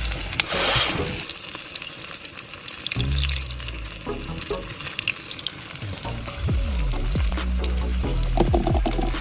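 Chicken tempura frying in hot oil, a crackling sizzle, over background music with a steady bass line.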